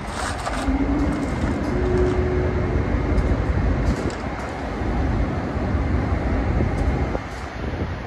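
A train passing: a steady low rumble with a faint, held high whine.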